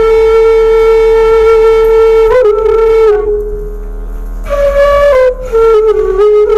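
Bamboo suling flute played by a beginner: a long held note, a softer stretch about three seconds in, then a short higher note that steps down back to the first pitch near the end.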